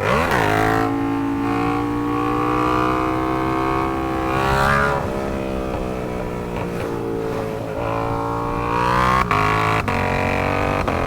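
Sport motorcycle engine accelerating through the gears. The pitch climbs steadily and drops sharply at two upshifts, about halfway through and again near the end.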